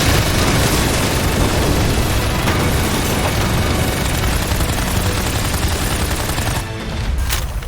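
Sustained gatling-gun barrage: a dense, unbroken stream of rapid shots and booms as the gun empties all its ammunition. It falls away near the end, with one sharp crack just before the close.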